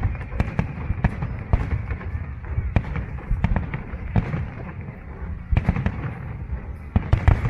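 Aerial fireworks bursting over a deep, continuous rumble, with irregular sharp bangs every half second or so and a quick cluster of bangs near the end.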